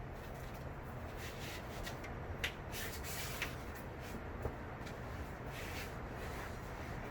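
Light rustling and a few sharp small clicks, as of parts being handled during engine work, over a steady low hum.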